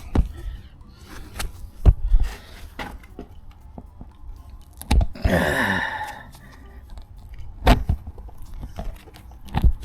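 Tyre plug kit tools being handled at a punctured tyre: several sharp knocks and a rasping, crunching scrape about five seconds in.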